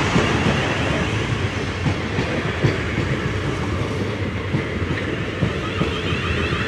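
A 12-coach South West Trains Class 450 Desiro electric multiple unit rolling past over the level crossing, a steady rumble with wheels clicking over the rail joints.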